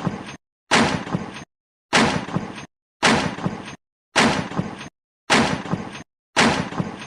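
A weapon sound effect: a sudden hit with a crashing, crackling tail, repeated identically about once a second, each one cut off into dead silence.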